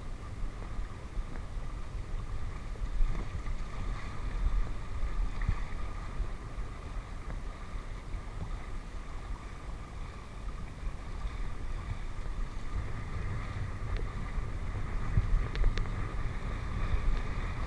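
Steady low rumble with a faint steady hum, like a running motor, and wind on the microphone; a few short clicks near the end.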